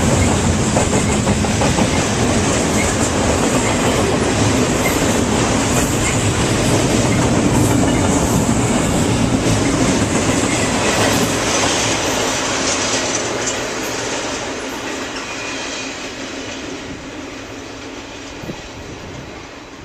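A train rolling past, its wheels clacking over the rail joints, steady and loud at first and growing fainter over the last several seconds.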